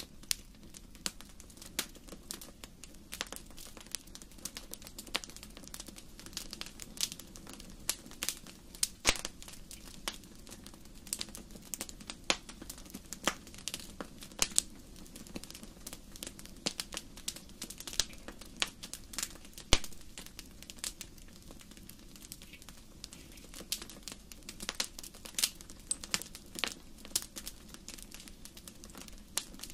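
Wood fire crackling in a fireplace: frequent irregular sharp pops and snaps over a low steady rush of burning.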